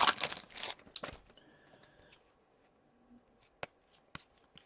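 A trading card pack's wrapper crinkling and cards being shuffled for about the first second, then a few sharp light clicks as cards are handled.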